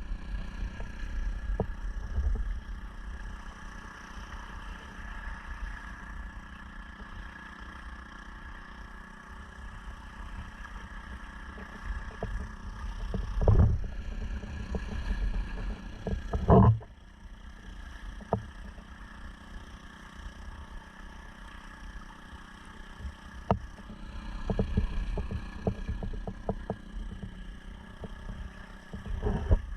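Honda 2.3 hp four-stroke outboard running steadily on a motorized sea kayak, with water noise beneath it. Two louder thumps come about halfway through.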